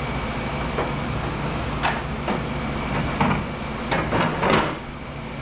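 A series of short metal clanks and knocks, about eight, the loudest near the end, over a steady mechanical hum from shop machinery.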